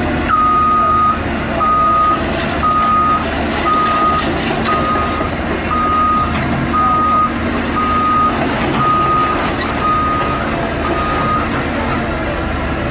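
Heavy vehicle's reversing alarm beeping steadily, about once a second, a single pitch over the rumble of its diesel engine; the beeping stops about a second before the end.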